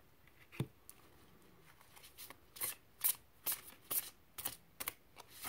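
Tarot cards being shuffled by hand: a run of short, sharp card flicks, one about half a second in and then two to three a second from about two seconds in.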